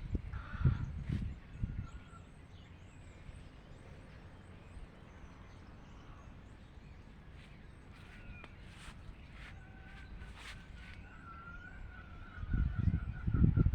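Garden ambience with birds chirping here and there. A long high tone with a slight waver runs through the last few seconds, and a few low thumps sound near the start and again near the end.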